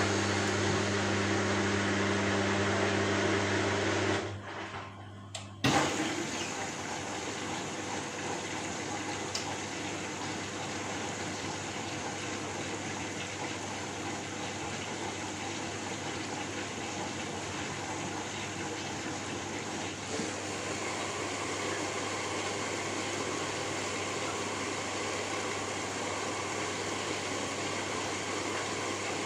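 A steady motor hum stops about four seconds in. After a short lull, an even rushing noise starts abruptly and runs on steadily.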